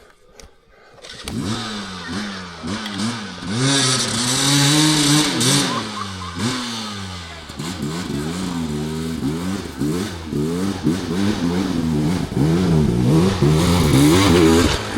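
Dirt bike engine, quiet for about the first second, then running hard and revving up and down again and again, its pitch rising and falling as the throttle is worked on rough ground.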